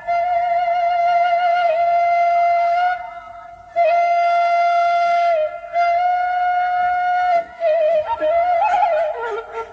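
Background music: a flute plays a slow melody of long held notes, with a few short breaks between phrases.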